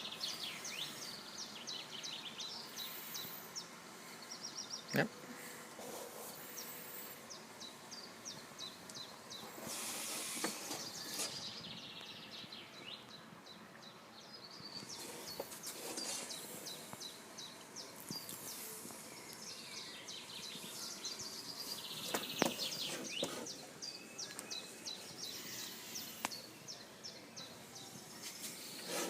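Outdoor nature ambience: birds chirping and singing in quick repeated high notes over a steady hiss, with a sharp click about five seconds in and another a little after twenty seconds.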